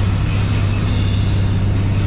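Motorboat engine running steadily under way, a constant low hum with an even hiss over it.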